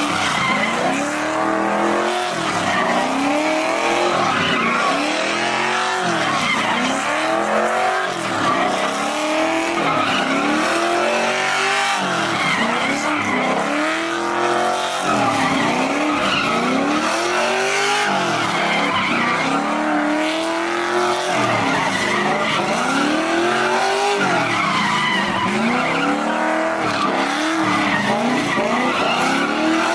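A car doing a burnout or donuts: the engine revs up and falls back over and over, about once every two seconds, while the tyres squeal steadily.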